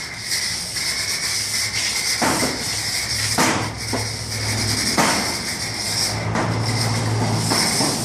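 Brush scrubbing a foamy car body, a steady rubbing hiss. A low hum comes and goes, and there are a few sharp knocks.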